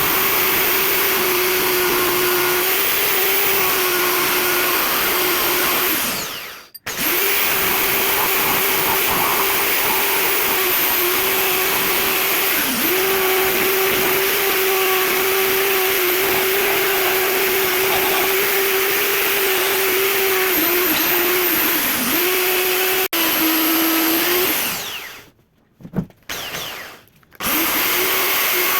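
Electric drill running with a steady whine, used as a makeshift lathe to turn a prayer-bead imame; its pitch dips briefly a few times as it slows under load. It winds down and stops about six seconds in, then starts again, and near the end stops with a couple of short bursts before running again.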